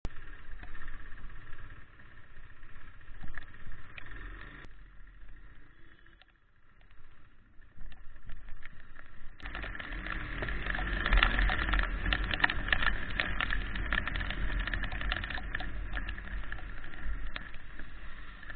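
Riding a KTM RC 390 motorcycle in the rain: low wind rush and vehicle noise with a busy crackle of rain on the microphone, growing louder and denser from about nine seconds in.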